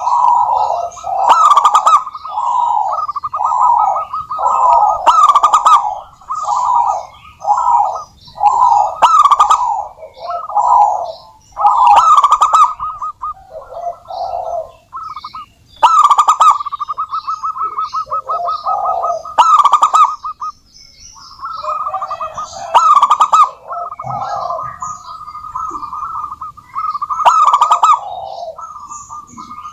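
Zebra doves (perkutut) cooing: several birds keep up nearly continuous rolling, trilled coos, with a louder call about every three to four seconds. Higher thin chirps are scattered over the top.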